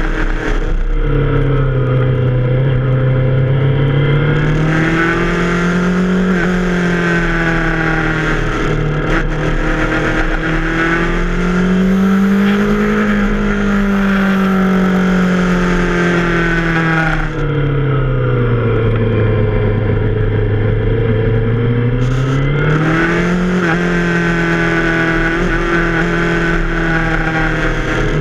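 Yamaha FZ6R's 600 cc inline-four engine running under the rider, its pitch rising and falling several times as the throttle is rolled on and off. A rush of wind over the microphone comes and goes with it.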